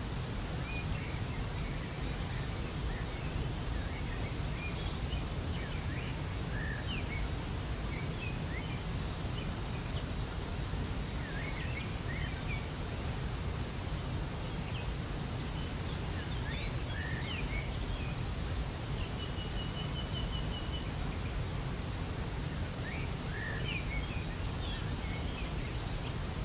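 Steady rush of a waterfall with small birds chirping over it in short scattered calls, and one rapid trill about two-thirds of the way through.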